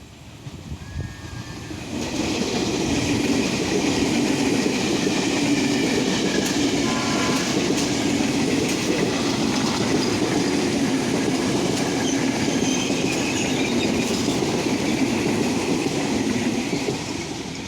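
Train passing close by: a steady rumble of wheels on rail that builds over the first two seconds, holds, and eases off near the end.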